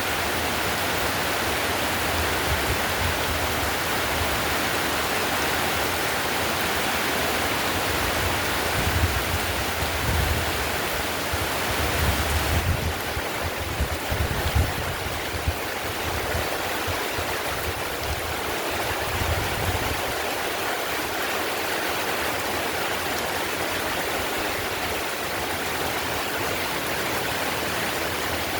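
Heavy rain pouring steadily onto a tiled roof, an even rushing hiss. Low rumbles swell and fade under it through the first two-thirds.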